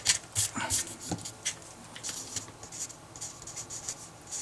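Writing on paper by hand: a run of short, scratchy strokes, quickest and loudest in the first second, as a maths expression is rewritten.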